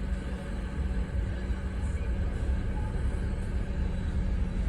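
Car engine idling steadily, heard from inside the cabin as a low, even rumble with a constant hum.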